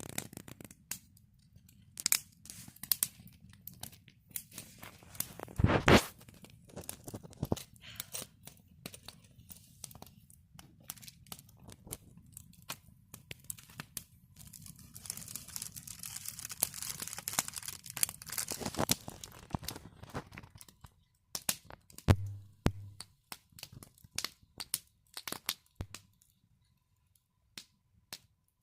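Campfire crackling: burning wood snapping and popping in irregular sharp cracks, with a few louder pops and a few seconds of hissing past the middle.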